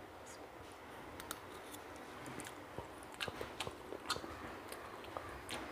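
Faint chewing with scattered small mouth clicks and smacks as someone tastes a mouthful of the fish masala.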